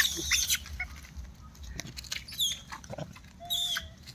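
Animal calls: a few short, high squeaks and chirps, some falling in pitch, with a few light clicks in between.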